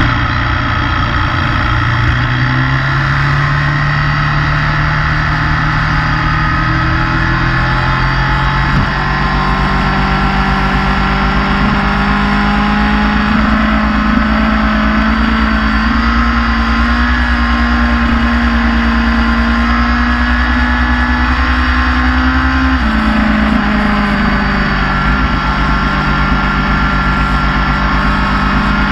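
Motorcycle engine running under way, its pitch climbing slowly as it holds the throttle. It changes suddenly about nine seconds in and drops sharply near the end.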